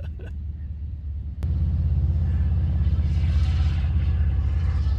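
Motorcycle engine rumbling, stepping up sharply in loudness after a short click about a second and a half in.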